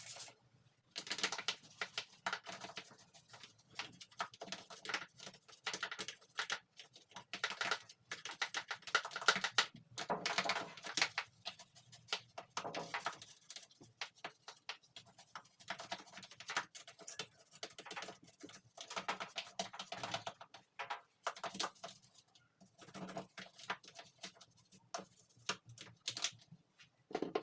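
Hands and cleaning tools working on a washing machine: quick runs of clicks, scraping and rustling in irregular bursts with short pauses.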